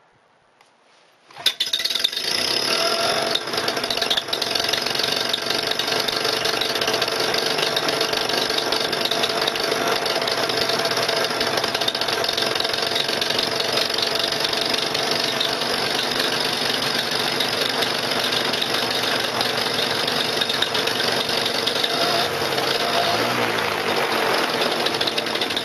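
Paramotor's two-stroke engine starting cold after priming: it catches suddenly about a second and a half in, then keeps running steadily at idle.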